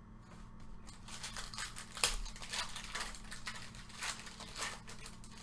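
Foil trading-card pack wrapper being torn open and crinkled by hand, a dense run of crackling starting about a second in, with one sharp rip about two seconds in.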